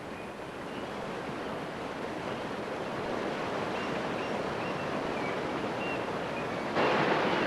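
Steady rush of water, slowly swelling, then jumping louder near the end. A few faint, short, high chirps sound over it.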